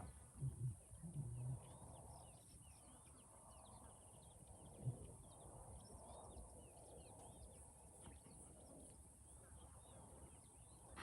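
Impala alarm snorts: three or four short, low calls between about half a second and a second and a half in, over faint birds chirping throughout.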